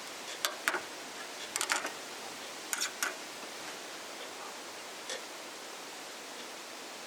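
A steady background hiss with a few sharp, irregular clicks and ticks, several close together in the first three seconds and a fainter one about five seconds in.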